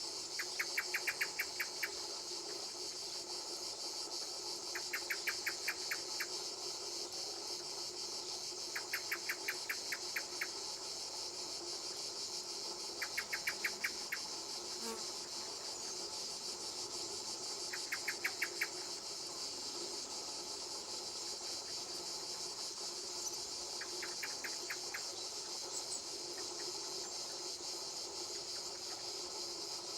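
Insects calling: a steady high-pitched buzzing chorus, with a short run of about eight quick chirps repeated six times, every four to five seconds.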